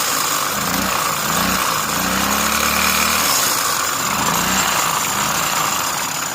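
Chinese GY6 150 cc scooter engine revved under throttle, running loud with noise from the belt and clutch assembly. The drive belt is slipping and burning, which the mechanic takes for a clutch issue, perhaps a seized clutch.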